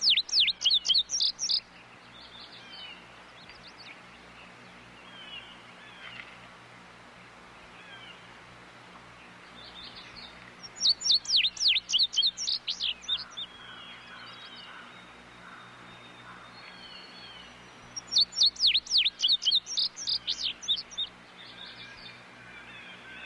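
A bird giving loud bouts of rapid, evenly repeated notes that each sweep downward, the 'tudigo tudigo' call: three bouts of about ten to fifteen notes each, one right at the start, one about eleven seconds in and one about eighteen seconds in. Fainter calls of other birds fill the gaps between the bouts.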